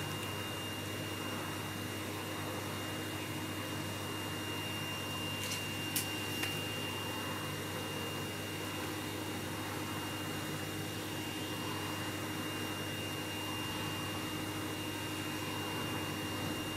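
Vacuum cleaner running steadily, with a steady high whine over its motor noise. A couple of brief clicks come about six seconds in.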